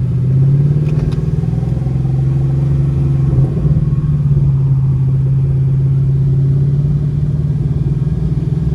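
Car engine running at a steady speed, a low, even drone that holds its pitch.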